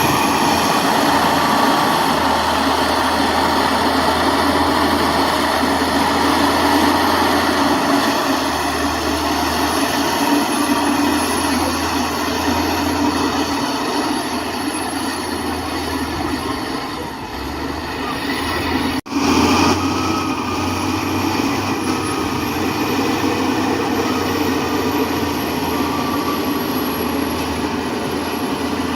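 Heavy diesel earthmoving machinery running steadily, a loud, dense mechanical noise with a low hum underneath. It cuts out for an instant about two-thirds of the way through.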